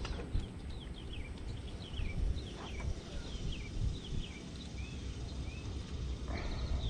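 Birds chirping in a string of short, downward-sliding notes, over a steady low rumble.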